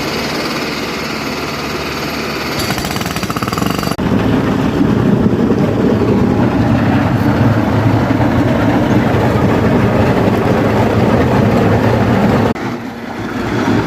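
Heavy road-works machinery running loudly with a rough rattling, its sound changing abruptly about four seconds in and again near the end.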